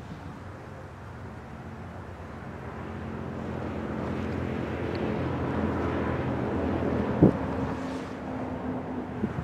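Diesel engines of an approaching BNSF freight train led by a GE ES44AC locomotive, a steady low drone that grows louder as it nears. A short sharp thump about seven seconds in.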